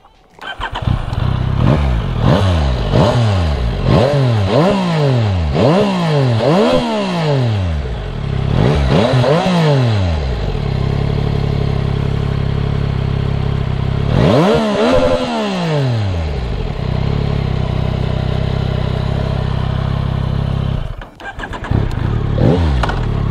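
Yamaha MT-09 SP's three-cylinder 889 cc CP3 engine heard through its twin-outlet exhaust, revving up and dropping back about once a second, half a dozen times. It then holds a steady pitch, with one more rise and fall midway and a brief dip near the end.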